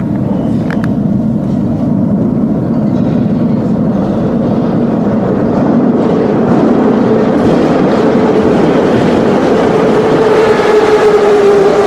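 81-717.5M Moscow Metro train running with a steady loud rumble. In the second half a whine grows louder and falls slightly in pitch.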